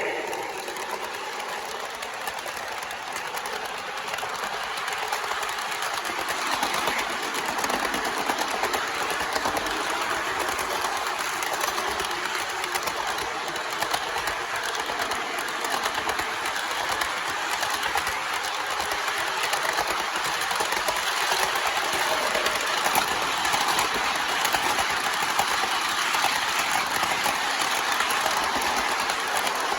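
MTH Propane Turbine model locomotive, with its four motors, running fast with a long freight train: a steady whir and rattle of motors, wheels and cars on the track, getting a little louder about six seconds in.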